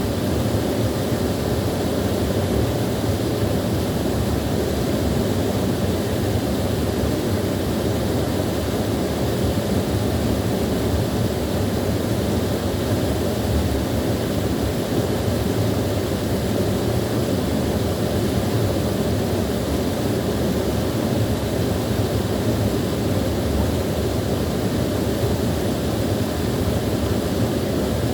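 Small waterfall: water pouring and splashing in a steady, unbroken low rush.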